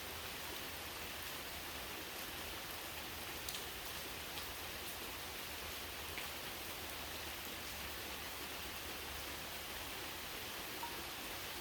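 Steady rain falling, an even hiss with a few distinct drop ticks standing out here and there.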